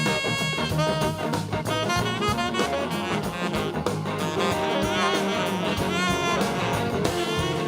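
Live band music with no singing: an instrumental break with a horn section and drum kit, its lead notes sliding up and down in pitch.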